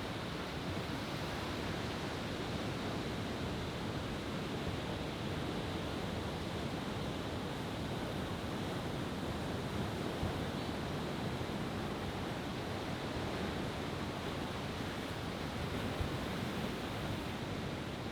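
Steady rushing of surf on a beach, an even wash of noise with no firework bursts.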